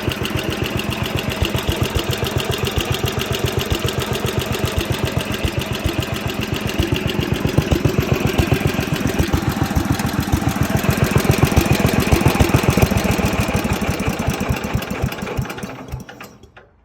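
1967 Simplicity 2210 Landlord garden tractor's engine running with an even pulsing beat while mowing. It grows a little louder past the middle, then fades out near the end.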